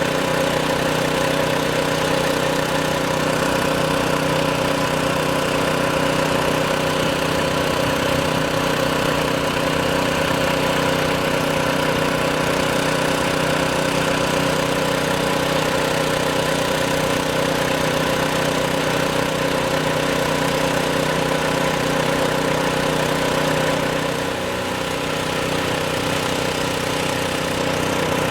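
An engine running steadily at idle, one unchanging pitch with a pulsing low end, dropping slightly in level for a couple of seconds near the end.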